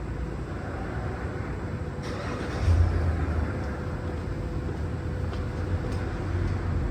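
Wind buffeting the microphone in gusts while a car passes on the street; its tyre hiss swells about two seconds in and fades.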